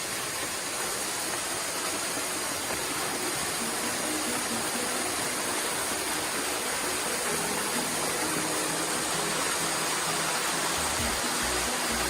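Steady rushing of running water, growing slightly louder, with faint music underneath.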